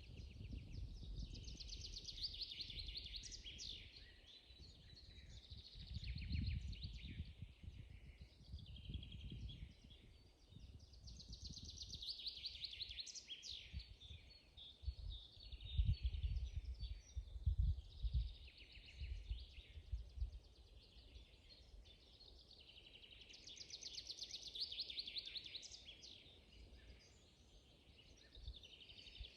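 Songbirds singing in a spring forest: fast trilling phrases come back every ten seconds or so, with shorter chirps between them. Under the song run low, uneven rumbles, with a few louder thumps in the middle.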